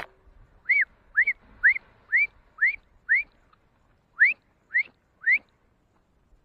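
A bird calling: nine short, loud whistled notes, each sliding up and hooking over at the top. They come about two a second, with a pause of about a second after the sixth.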